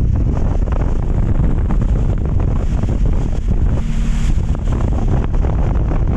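Strong storm wind buffeting the microphone as a loud, steady low rumble, over the rough, whitecapping sea.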